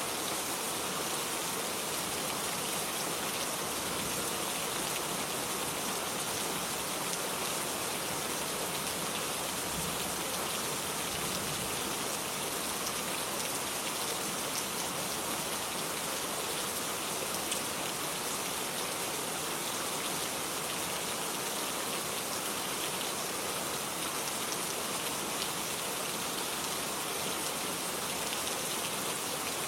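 Steady rain falling on a garden, an even hiss with scattered individual drops ticking.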